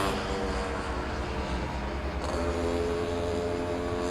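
A steady engine drone with a constant pitch and a low rumble beneath it.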